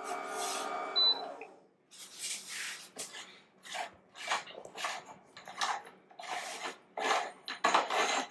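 Electric motor of an Amzchef ZM1517 juicer's meat-grinder attachment humming steadily, then winding down and stopping about a second and a half in, the grinder plugged with stringy ground meat. After it stops comes a series of short, irregular scraping and rustling noises.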